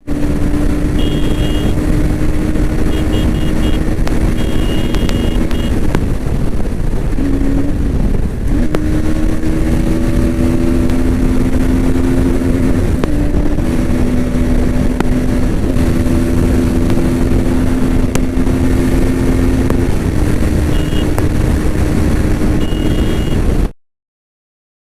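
Bajaj Pulsar NS200 motorcycle's engine running steadily under heavy rushing noise, its pitch stepping up and down several times. It cuts off suddenly near the end.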